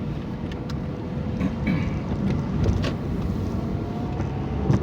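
Car driving on a wet road, heard from inside the cabin: a steady rumble of engine and tyres with scattered light ticks.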